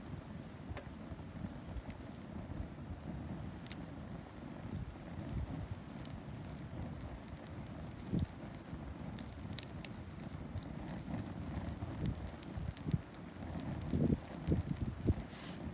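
Wood campfire burning: occasional sharp crackles and pops over a low, steady rumble.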